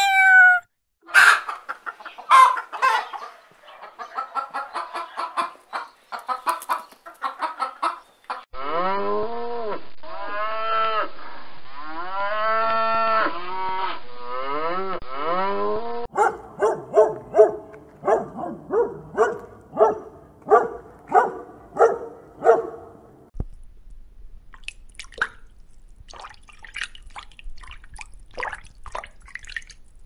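A run of separate farm-animal recordings. A cat's meow ends, then hens cluck. A series of repeated, rising-and-falling animal calls follows, then cattle calling in short calls about every second. Near the end come faint water drips over a low hum.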